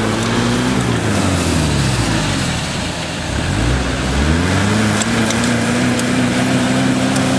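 Off-road 4x4's engine under load: its revs fall away over the first few seconds, then climb again about three and a half seconds in and hold high and steady as it drives. A few sharp ticks come near the middle.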